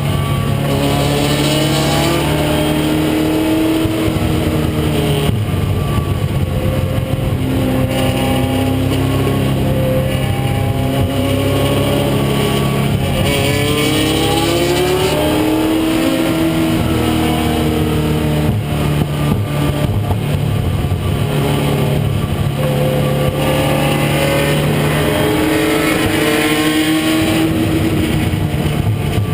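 1996 Ford Mustang race car's engine under hard acceleration on track, its pitch climbing over a couple of seconds and then falling back, again and again through the gears, over steady wind and road noise.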